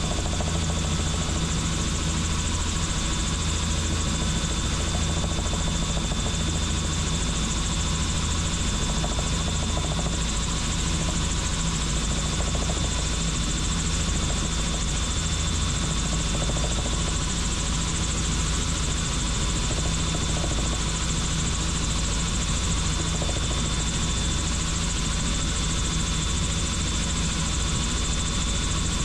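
Helicopter in flight, its rotor and turbine engine running steadily, with a thin high whine held throughout.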